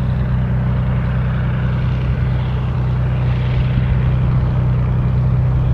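Aircraft engine running steadily: a constant low drone with a strong hum under a rushing hiss.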